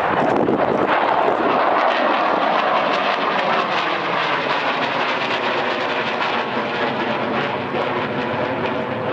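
B-2 Spirit stealth bomber's four turbofan jet engines passing in a low flyover: a loud, steady rushing jet noise, loudest about a second in and then easing off slightly.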